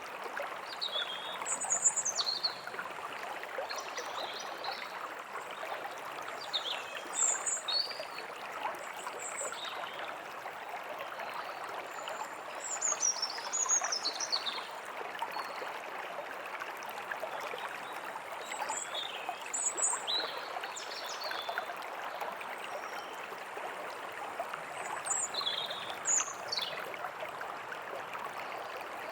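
A stream running steadily, with birds chirping now and then above it in short, quick calls and falling whistles.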